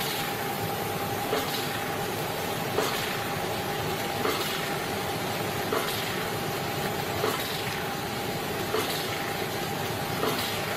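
Hydraulic ram pump running: a sharp clack repeats evenly about every one and a half seconds, the waste valve slamming shut with each water-hammer stroke, over a steady rush of water.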